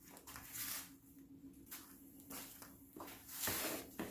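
Faint soft scraping and shuffling of wooden tambour slats being slid into line against a plywood edge, a few short scuffs at a time, over a faint steady hum.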